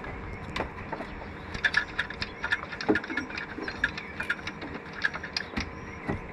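Small tools and parts clicking and clinking irregularly during hands-on work, over a faint steady hum.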